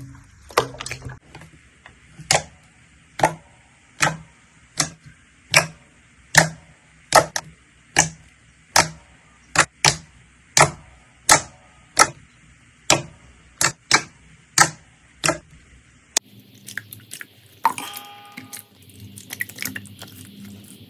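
Slime being pressed and popped: a regular series of sharp pops, about one every 0.8 s. Just after the middle the pops give way to softer crackling and clicks.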